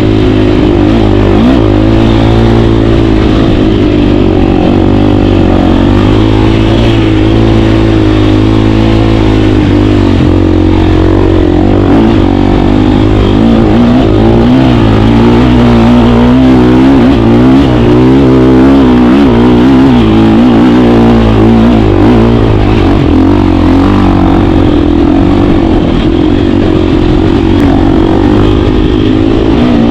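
KTM 350 dirt bike's single-cylinder four-stroke engine running loud as it is ridden, its pitch rising and falling with the throttle.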